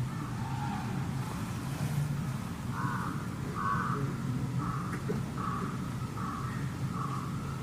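Crow cawing, a run of about six caws a little under a second apart starting about three seconds in, over a steady low background hum.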